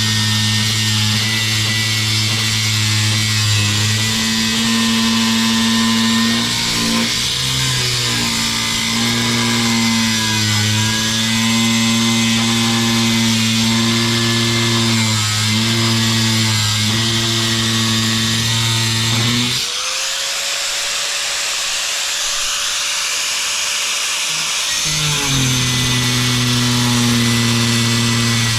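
Angle grinder with a diamond blade cutting through a porcelain tile: a steady motor hum under a high grinding hiss, the pitch sagging briefly several times as the blade loads up. About two-thirds of the way through, the pitch jumps higher for around five seconds, then sinks back as the blade bites again.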